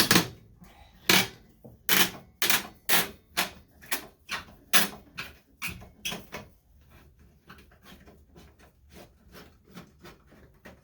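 Screwdriver working a stiff slotted headlight-retaining screw out of a classic Mini's front wing, giving a series of sharp clicks about two a second. The clicks turn to faint ticks after about six seconds.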